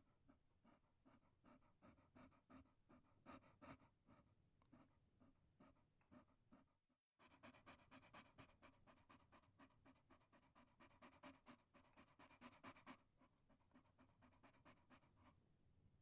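Chihuahua panting: faint, quick, even breaths at about three a second. The panting breaks off for a moment about seven seconds in, then carries on a little stronger.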